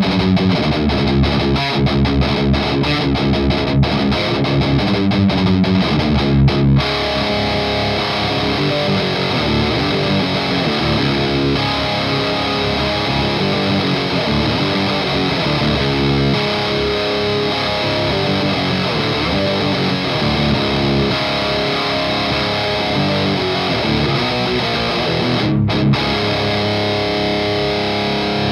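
Distorted electric guitar riff played through an overdrive pedal into an EVH Iconic amp on its Crunch channel: fast, tight palm-muted chugging, a brief stop about seven seconds in, then ringing, held chords, with another short break near the end.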